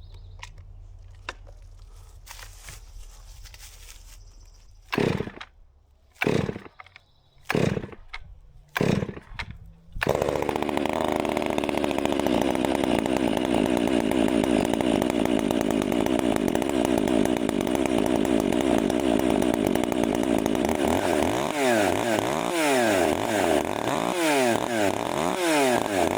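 STIHL 400C two-stroke chainsaw being started from cold: four short pulls of the starter, then it catches about ten seconds in and runs steadily. Near the end it is revved up and down repeatedly as it warms up.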